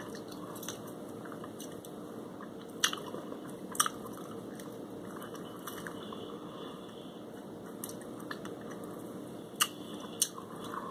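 A person chewing shrimp and French fries with the mouth close to the microphone, with a few short, sharp mouth clicks.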